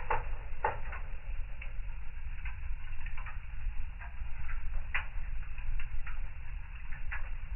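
Fireplace fire crackling: irregular sharp pops and snaps over a steady low rumble of the flames, with louder pops right at the start and again about five seconds in.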